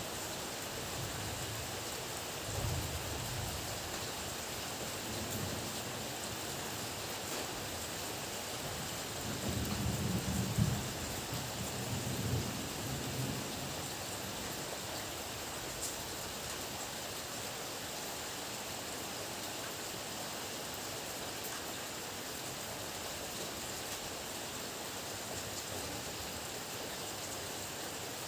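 Steady heavy rain, with thunder rumbling twice: a short low rumble about two and a half seconds in, and a longer, louder roll starting near ten seconds in, lasting about four seconds.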